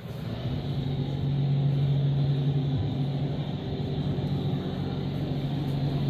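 An engine or motor running steadily with a low, even hum. It swells up over the first second or so, then holds.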